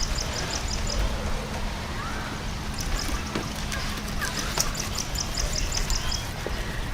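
A bird calling in quick runs of high, evenly repeated chirps, about six a second. The chirps come three times: at the start, around three seconds in, and again from about four and a half to six seconds. Steady low background noise runs beneath them.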